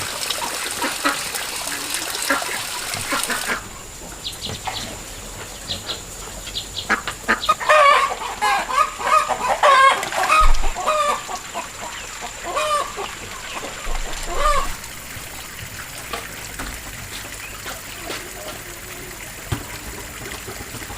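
Chickens clucking in a run of short calls, busiest and loudest in the middle stretch. A steady hiss runs underneath at first and stops about three and a half seconds in.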